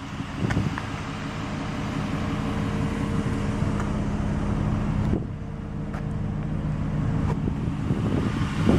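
3.8-litre V6 of a 2007 Mitsubishi Galant GTS idling: a steady low hum heard from the rear of the car, near the exhaust.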